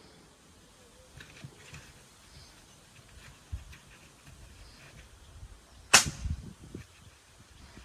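Hands packing an earthen pot, with faint rustling and low thumps and one sharp, loud crack about six seconds in, followed by a few dull knocks.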